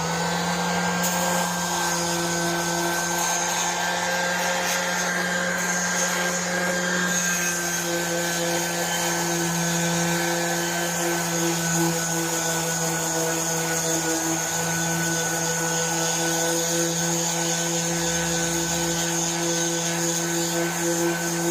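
Electric grinder spinning up and then running steadily with a constant whine, grinding peeling paint and surface rust off a metal go-kart seat frame.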